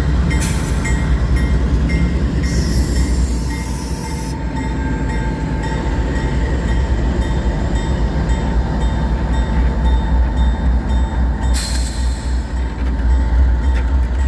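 Slow freight train cars rolling past with a steady low rumble and a thin, steady whine. Short high hissing squeals come from the wheels about a third of the way in and again near the end.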